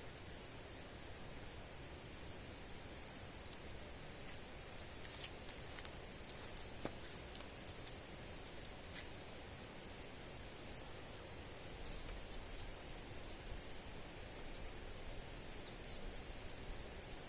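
Birds chirping: many short, very high chirps, scattered irregularly over a faint steady background hiss.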